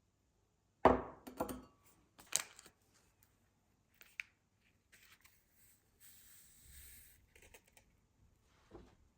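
Light knocks and clicks of objects being handled, the loudest about a second in, followed by a few sharper clicks, a soft hissing rustle about six seconds in, and another knock near the end.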